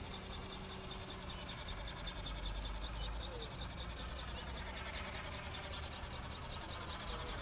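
Outdoor ambience: a steady, high-pitched pulsing chirr, like insects, over a low rumble that grows louder about two seconds in.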